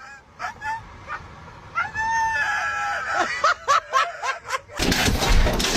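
A dog crying out: a few short whines, one long high whine-howl about two seconds in, then a quick run of short yelps. It gives way to a loud rushing noise near the end.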